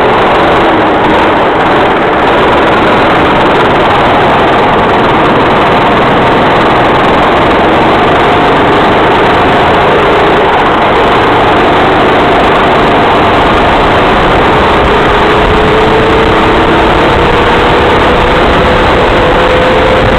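Racing kart engine running at speed under a loud, steady rush of noise. Its pitch dips and then climbs gradually over the last few seconds.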